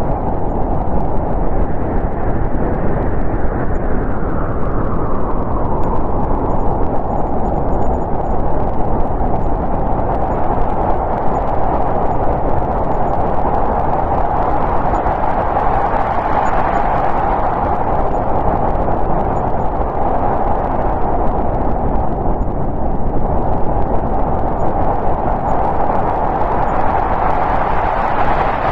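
Snowstorm wind blowing hard and steadily, a dense rushing noise. Gusts swell and brighten about halfway through and again near the end.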